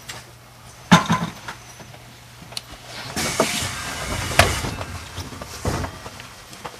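Knocks and clatter aboard a train standing at a station platform: a sharp knock about a second in, then a couple of seconds of hiss mixed with clicks and a loud knock, and one more knock near the end.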